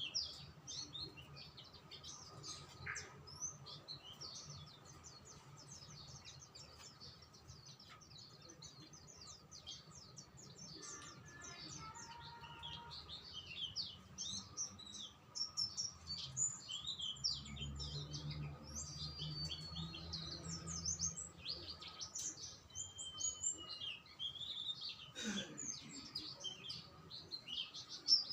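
Small songbirds chirping and twittering in quick, overlapping high-pitched calls, with a few longer sliding whistled notes.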